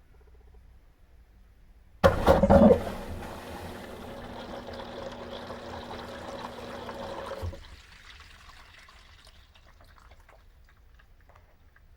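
Electrolux LT13B top-load washer starting its water fill. About two seconds in, water suddenly rushes into the tub, loud at first and then steady. The flow drops away sharply after about seven and a half seconds, leaving faint trickling and dripping.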